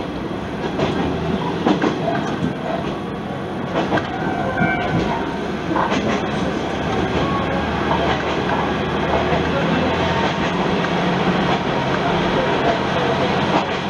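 Diesel railcar running along the line, heard from inside: a steady low engine drone with irregular clicks of the wheels passing over rail joints.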